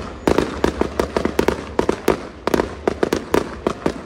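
Fireworks bursting: a rapid, irregular run of sharp bangs, about five a second.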